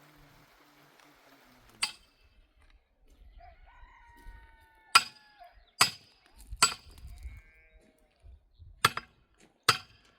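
Six sharp, ringing knocks at uneven intervals: the first about two seconds in, three close together around the middle, two more near the end.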